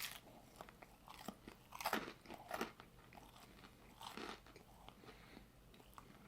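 Faint chewing of a crunchy chicken sandwich, with a handful of soft, irregular crunches.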